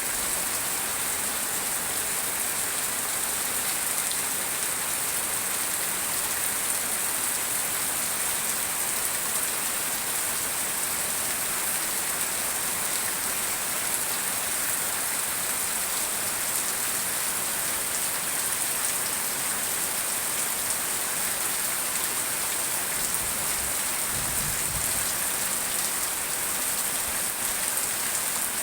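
Heavy downpour, a steady, unbroken sound of rain pouring down.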